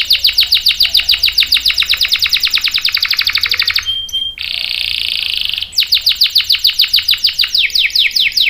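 Domestic canary singing: a fast run of repeated high notes, about ten a second, breaks about four seconds in into a short steady buzzing trill, then resumes as another fast run whose notes drop lower near the end.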